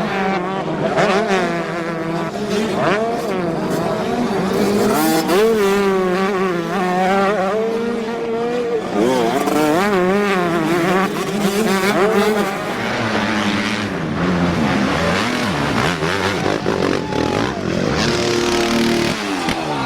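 Several dirt bike engines running together as a pack races, their notes rising and falling as the riders rev, shift and back off.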